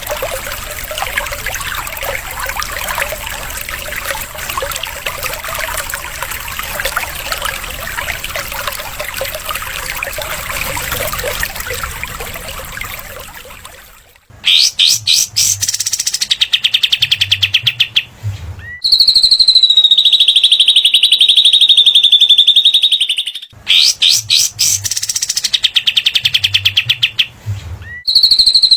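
Recorded songs of small songbirds (cililin and katem) used as masteran for training cage birds. The first half is a dense, busy chattering song; about halfway in it changes to loud, very fast trills of repeated high notes, including long even trills held for several seconds, repeated twice.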